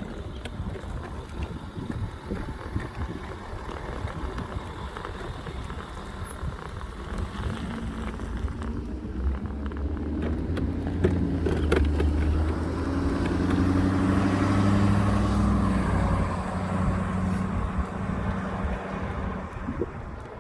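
A motor vehicle passes by: its engine noise builds up about a third of the way in, is loudest a little past the middle, then fades away, over a steady outdoor rumble.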